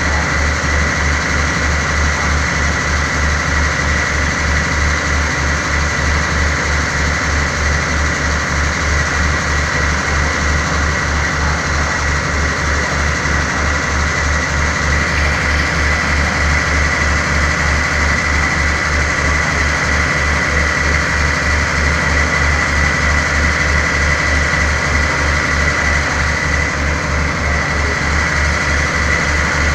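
Diesel train engine idling steadily while stopped, giving an even low pulsing hum with a thin high whine over it.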